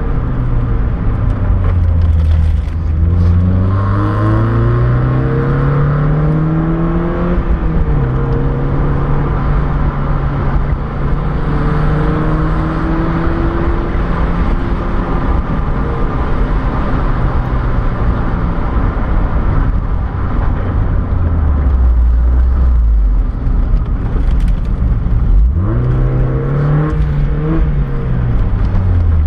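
Mazda MX-5's four-cylinder engine heard from inside the cabin on a mountain descent, over steady road noise. The revs climb over several seconds and drop sharply at a gear change, hold steady, then fall away, with a quick rise and fall near the end.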